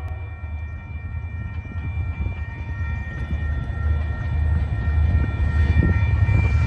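Diesel freight locomotive approaching, its low engine rumble growing louder, with a grade-crossing bell ringing steadily over it.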